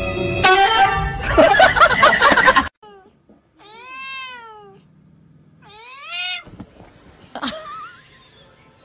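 A tabby cat yowling at another cat: two drawn-out calls that rise and fall in pitch, around four and six seconds in. Before them, loud music cuts off abruptly just under three seconds in.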